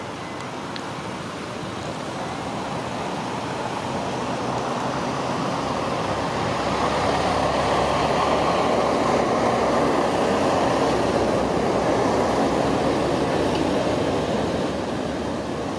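Steady rain hiss with a passing vehicle whose noise swells over several seconds, holds, and fades near the end.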